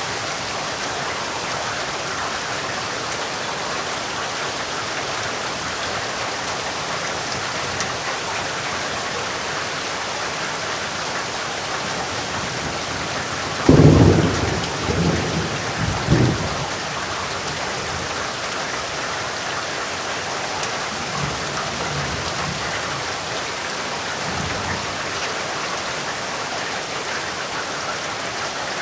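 Steady heavy rain. About halfway through, a sudden clap of thunder rumbles for a few seconds, and fainter rumbles follow later.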